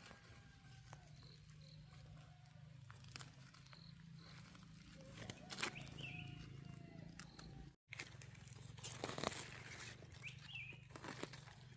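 Faint short animal calls, repeating every few seconds, over a low steady hum and scattered clicks. The sound cuts out briefly about eight seconds in.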